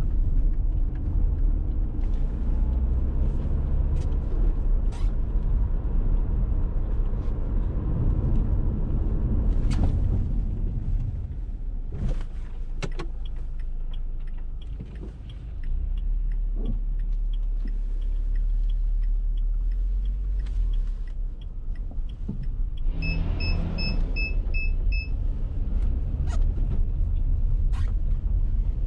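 Dacia Duster 1.6 SCe's naturally aspirated four-cylinder petrol engine and road noise on the move, a steady low rumble with scattered small knocks and clicks. The rumble drops for a few seconds about halfway and comes back. A short run of quick high electronic beeps sounds about two thirds of the way in.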